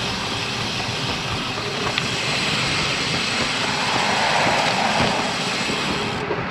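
Steady wind rush on a bicycle rider's GoPro microphone while riding in gusty wind, swelling a little about four seconds in.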